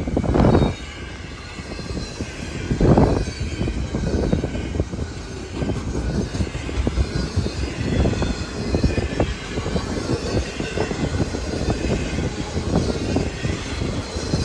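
Double-stack intermodal well cars of a freight train rolling past close by: a steady rumble and clatter of steel wheels on the rails, with two louder surges about half a second and three seconds in.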